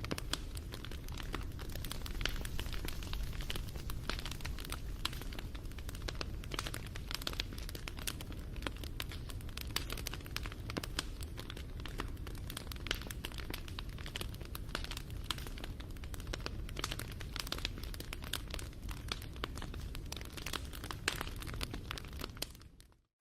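Wood fire crackling, with many quick irregular pops and snaps over a low steady rumble. It fades away to silence near the end.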